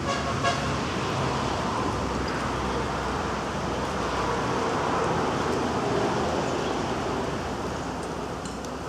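Road traffic noise: a motor vehicle running close by, with a steady low rumble that eases after about four and a half seconds.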